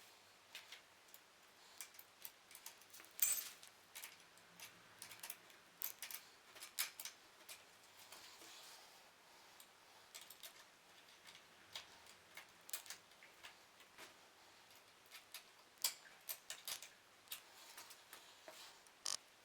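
Faint, irregular light clicks and taps of tools and small bicycle parts being handled during assembly, with a sharper knock about three seconds in and a short soft rustle around eight seconds in.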